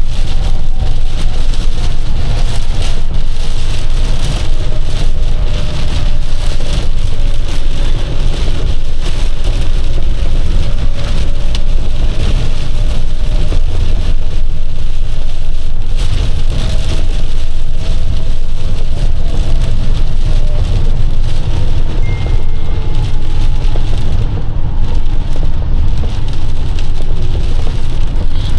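Inside a box truck's cab while it drives on the highway in heavy rain: a steady, loud low rumble of engine and road noise with rain hitting the truck, and a faint engine tone that slowly drifts in pitch.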